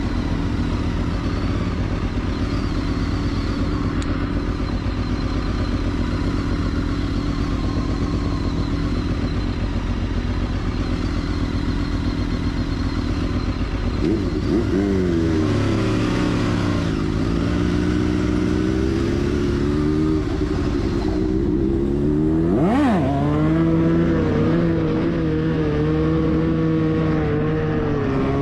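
Motorcycle engine running at a steady idle, then revved: from about halfway its pitch climbs and falls, with a quick sharp dip and rise near the end.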